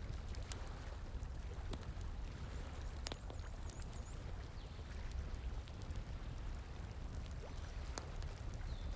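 Bonfire crackling with scattered sharp pops over the steady rushing of flowing water, with a few faint high chirps in the middle and near the end.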